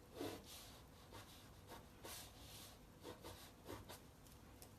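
Faint scratchy strokes of a pencil sketching on paper, a few short strokes with a slightly longer stroke about two seconds in.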